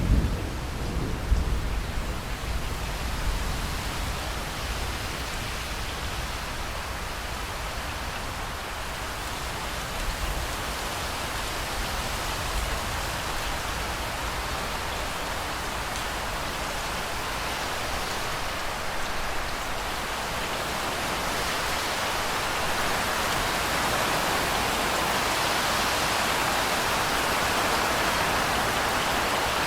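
Steady heavy rain with a low rumble of thunder at the start; the rain grows a little louder toward the end.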